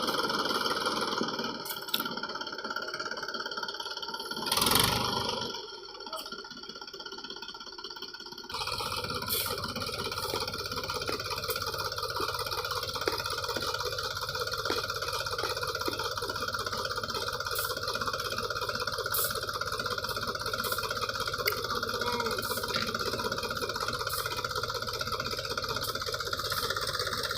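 Mahindra 275 DI tractor's diesel engine running steadily, with a loud brief noise about five seconds in.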